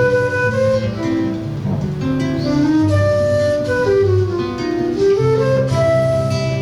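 A flute and a seven-string acoustic guitar playing together live: the guitar holds low notes and chords under a moving flute melody that slides between notes in the middle.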